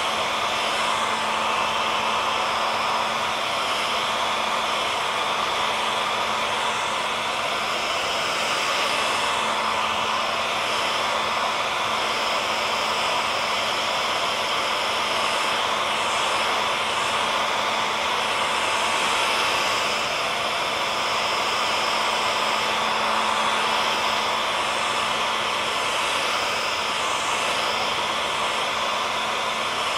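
Hair dryer running steadily: an even rushing blow of air with a steady motor hum.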